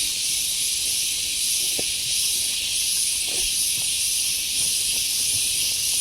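Steady high-pitched hiss of an insect chorus that does not let up, with a couple of faint soft knocks beneath it.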